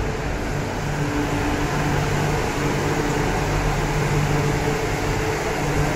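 MTR Q-train electric multiple unit standing at the platform: a steady hum with faint low tones from the train's running equipment.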